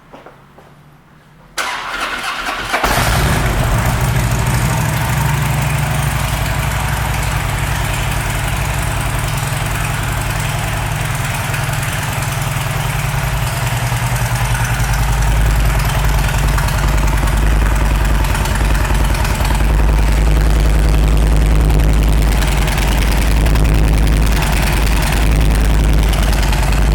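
2008 Harley-Davidson Road King Classic's Twin Cam 96 V-twin, fitted with Rinehart aftermarket pipes, cranking on the electric starter about a second and a half in. It catches about a second later and settles into a steady, loud, lumpy idle.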